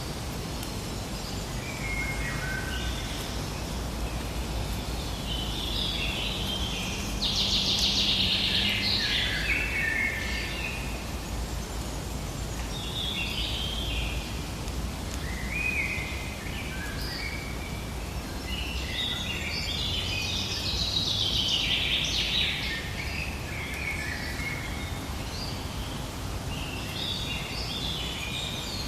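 Forest ambience: songbirds singing in bursts of quick chirping phrases over a steady low hiss. The birdsong is loudest about a quarter and again about three quarters of the way through.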